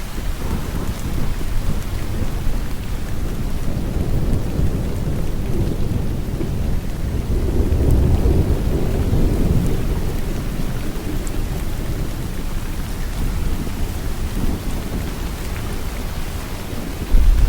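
Steady heavy rain falling in a thunderstorm, with a low rumble of thunder that swells about halfway through and a sudden deeper rumble starting right near the end.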